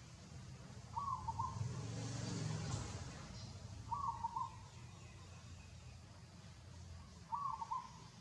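A bird gives a short call of a few quick notes, three times, about three seconds apart, over a steady low hum.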